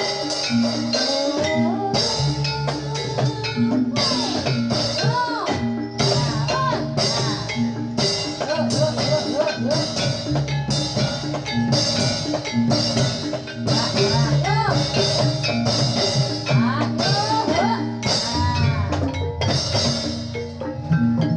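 Live Javanese gamelan music for a jathilan dance: metallophones ring a steady repeating melody over hand-drum strokes, with a gliding melody line arcing above it.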